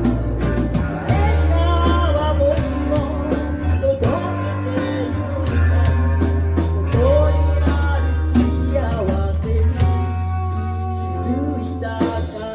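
A band playing an instrumental break: a lead guitar line with bends over a steady bass and drums.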